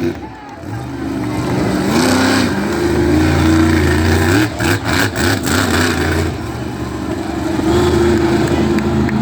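Monster truck engine revving hard, its pitch climbing and falling again and again, with a few sharp cracks or knocks about four and a half to five and a half seconds in.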